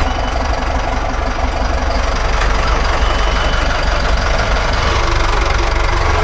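Volvo Penta marine diesel engine idling steadily, running again after its fuel system was primed and bled of air following running out of diesel.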